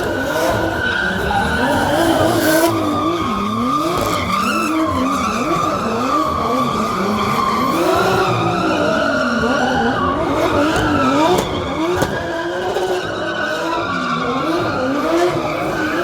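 Drift car being driven sideways: the engine revs rise and fall over and over while the tyres squeal without a break.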